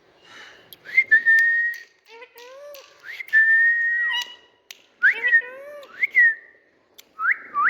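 Indian ringneck parakeet whistling: high notes that sweep up sharply and then hold steady, two longer held whistles followed by several shorter swooping ones, with short chattering calls between them.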